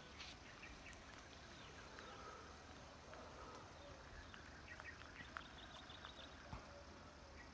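Faint bird calls and chirps over quiet outdoor ambience, with a quick run of high notes about six seconds in.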